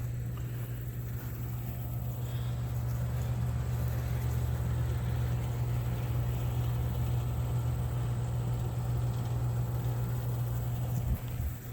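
Steady low engine-like hum, growing slightly louder over the first few seconds.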